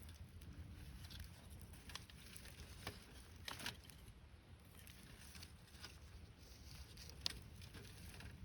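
Faint wood campfire crackling, with scattered small pops and one sharper pop near the end.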